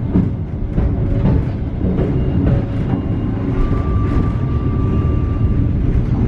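Passenger train coaches rolling over switches and rail joints as the train pulls into a station: a steady rumble with irregular clicks from the wheels. A thin steady squeal sounds for about two seconds past the middle.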